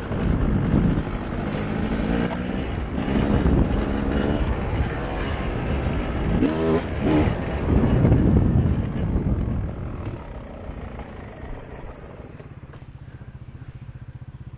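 Dirt bike engine running under throttle, rising in pitch briefly a couple of times, then dropping to a quieter, steady idle near the end.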